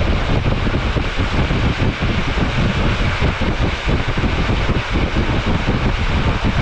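Rhaetian Railway train in motion: a steady rumble and rush of running noise.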